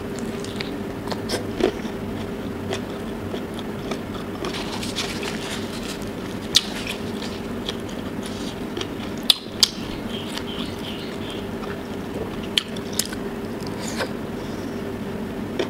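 Close-up eating sounds of a person chewing tiger prawn and rice: wet chewing and mouth noises, with scattered sharp lip-smacks and clicks, a few of them louder than the rest.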